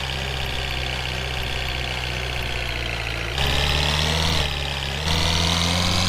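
Truck engine sound running at idle, then stepping up in revs about three and a half seconds in, dropping back a second later, and rising again near the end.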